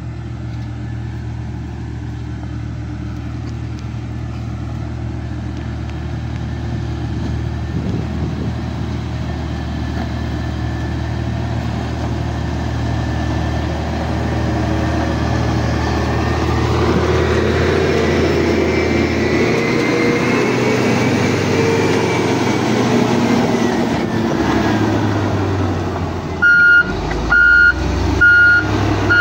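Diesel dump truck engine running, growing louder with rising and falling revs through the middle. Near the end its reversing alarm starts up, a high beep a little more than once a second.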